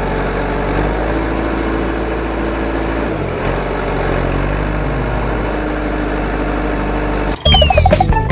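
A heavy vehicle engine idling steadily with a low, even hum. Near the end it cuts off suddenly and louder cartoon music with falling whistle effects takes over.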